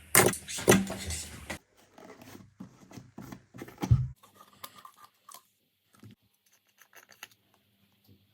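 Slime being handled: a quick run of loud, sharp pops and clicks that cuts off about a second and a half in, then quieter scattered crackles, a low thump near four seconds, and a few faint ticks.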